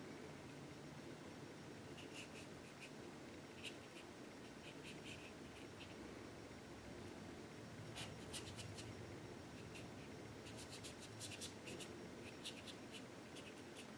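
Brush strokes of acrylic paint on canvas: faint, short scratchy dabs that come in clusters, thickest in the second half.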